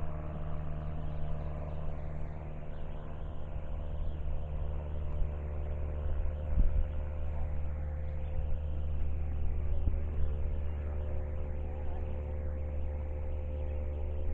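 A vehicle engine idling: a steady low hum that holds an even pitch, with a couple of soft knocks in the middle.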